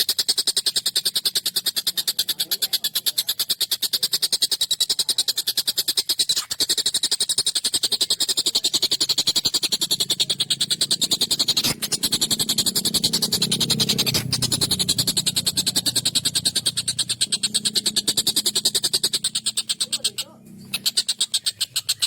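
Tengkek buto kingfisher calling in a rapid, harsh, high-pitched rattling trill that runs on without pause, broken only by a brief gap near the end. A low murmur sits underneath in the middle stretch.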